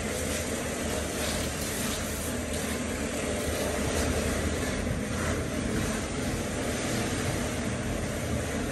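A steady, even rumbling noise with no distinct knocks or changes.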